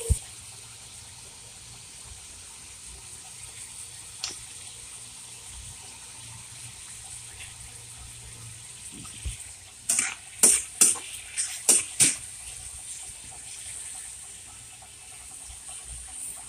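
Meat sizzling steadily in a hot wok. About ten seconds in comes a quick run of sharp clicks.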